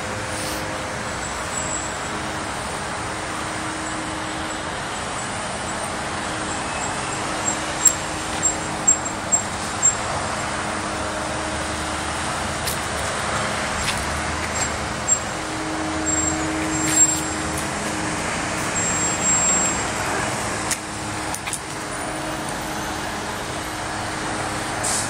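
Steady outdoor hiss and rumble like distant road traffic, with faint humming tones that come and go and a few sharp clicks about eight to ten seconds in.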